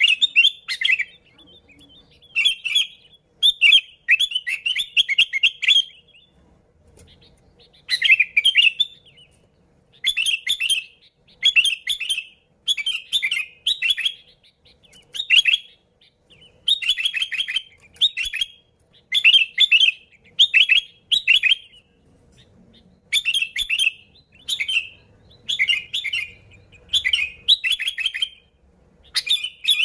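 Sooty-headed bulbul (kutilang) singing: short, bright phrases repeated about once a second, with brief pauses between groups and a longer gap about six seconds in.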